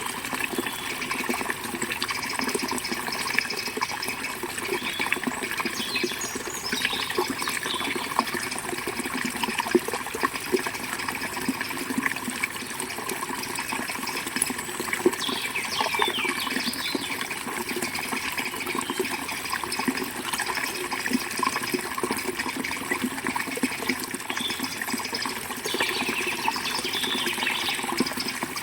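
Forest river water flowing steadily over rocks, a continuous rushing burble, with a few brief bird chirps above it.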